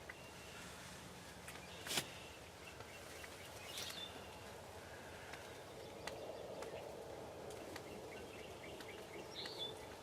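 Faint outdoor ambience with scattered small bird chirps, and one sharp click about two seconds in.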